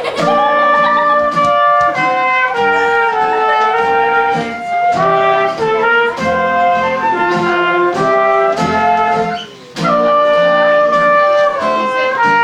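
Live instrumental music: a horn melody of held notes over strummed guitar, with a short break about nine and a half seconds in.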